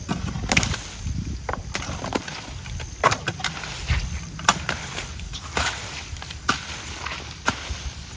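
Irregular snapping, cracking and rustling of sticks, bark and leaf debris being pulled by hand out of a clogged ditch culvert, with several sharper cracks.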